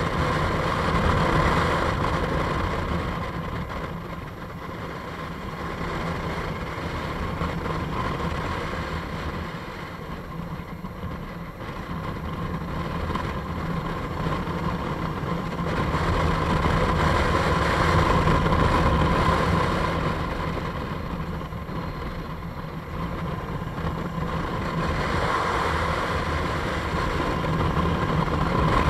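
Motorcycle engine running while the bike is ridden along a winding road, its sound swelling and easing several times.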